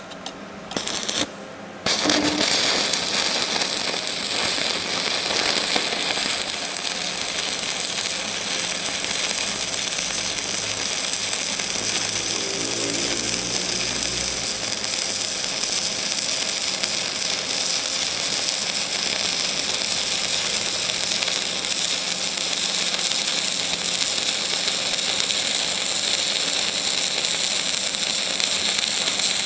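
Electric arc welding: a few short crackling bursts as the arc strikes, then about two seconds in a steady, dense crackle and hiss of the arc burning continuously.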